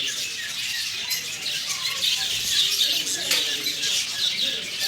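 A dense chorus of many small birds chirping at once, the calls short, high and overlapping.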